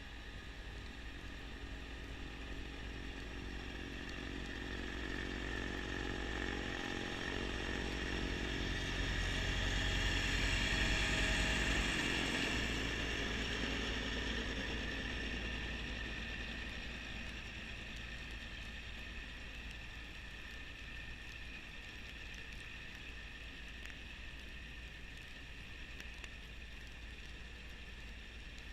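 Kubota B2650 compact tractor's diesel engine running steadily with its front-mount snowblower. It swells to its loudest about halfway through, then eases back to an even level.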